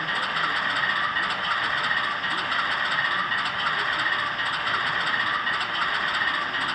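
Model train running on a layout: a steady mechanical running noise with a light rattle of wheels on track.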